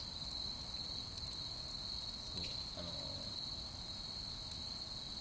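Insects, crickets, chirping in a steady high-pitched chorus, with a few faint crackles from a campfire.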